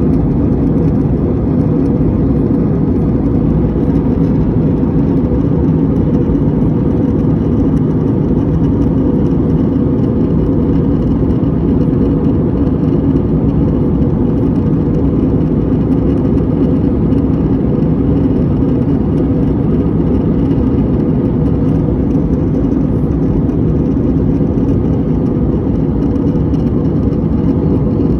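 Steady drone of an Airbus A320 cabin in flight: engine and airflow noise, low and even, with a faint steady hum and no change throughout.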